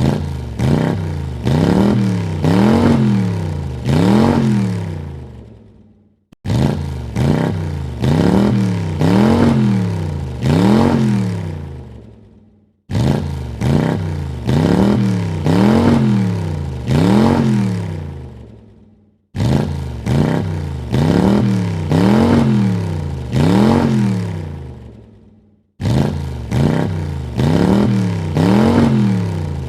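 Car engine revved in four quick blips, each rising and falling in pitch, then dying away. The same revving clip of about six seconds repeats five times, each time starting abruptly.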